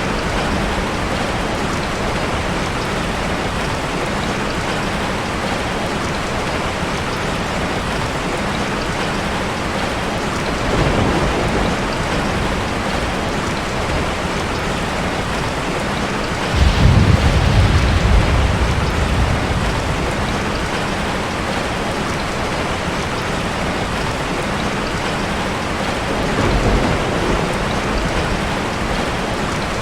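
Steady heavy rain falling. About halfway through, a deep rumble of thunder rises for a couple of seconds and fades back into the rain.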